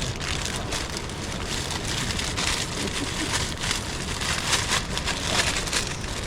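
Rain hitting a tent's flysheet in strong wind: a steady hiss dense with small patters.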